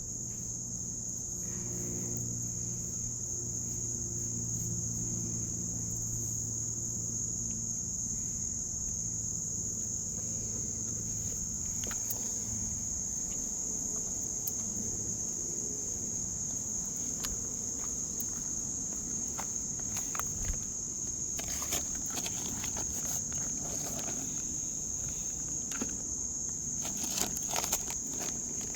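Insects chirping in one continuous high-pitched trill. A low hum sounds for roughly the first dozen seconds, and scattered clicks and rustles come in the last third.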